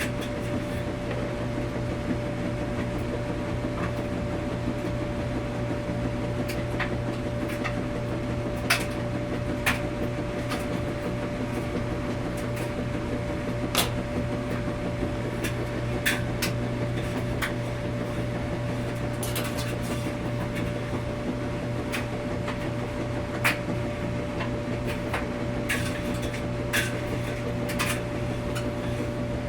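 Washing machine running in a laundromat with a steady low hum and a constant whine, and irregular sharp clicks and knocks every second or two, the loudest about nine, fourteen, sixteen and twenty-three seconds in.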